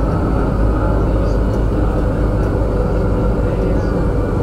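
A Manila MRT Line 3 train in motion, making a steady low rumble with no sudden changes.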